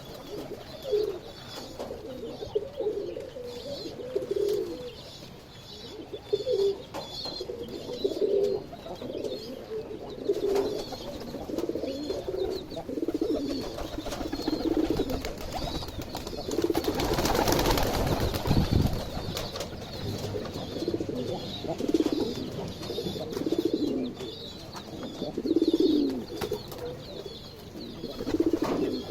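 Mother hen clucking in low, soft calls about once a second, with baby chicks peeping high and thin over her. Midway a loud rustle lasts about two seconds.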